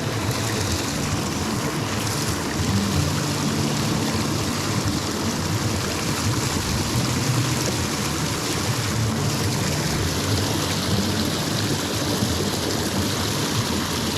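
Rushing river water, a steady, even wash of flowing current.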